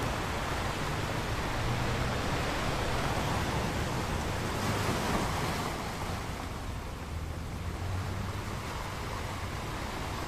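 Ocean waves breaking on a beach: a steady rushing of surf, with one wave's hiss swelling about halfway through and then falling back.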